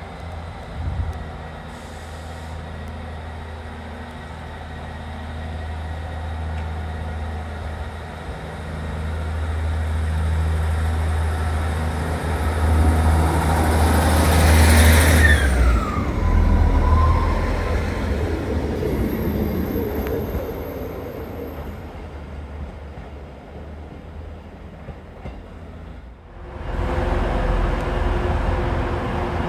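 A train's low engine drone grows louder to a peak about halfway and then fades, with a whine that falls sharply in pitch as it goes by. An abrupt cut about 26 seconds in brings in another train's steady low drone.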